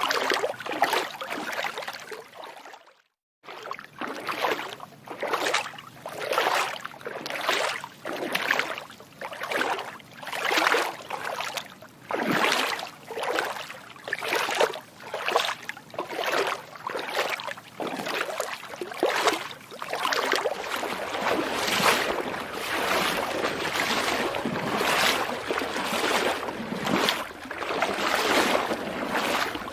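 Footsteps wading through water, a regular splash with each step at walking pace, about one and a half steps a second. The sound cuts out completely for a moment about three seconds in, and the splashing grows denser and more continuous in the last third.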